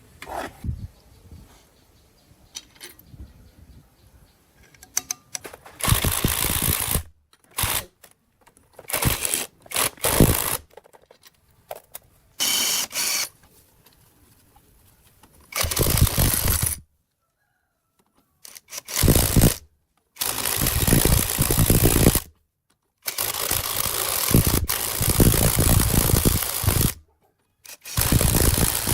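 Repeated loud bursts of machine noise, each from under a second to several seconds long, broken by abrupt cuts.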